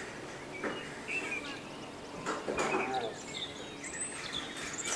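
Birds chirping in short, quick calls over a background of indistinct voices and outdoor noise.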